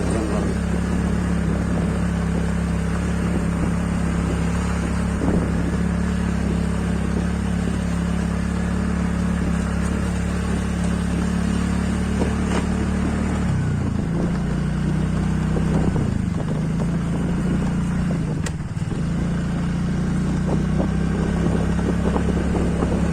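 Motorcycle engine running at a steady speed while riding, with wind and road noise. About halfway through, the engine note drops and picks up again several times, as the throttle is eased and reopened.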